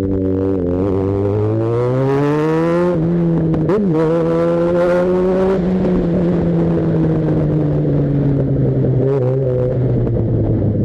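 Yamaha XJ6's inline-four engine accelerating, its pitch rising, dropping sharply at a gear change about three seconds in, rising again, then easing off slowly through the second half.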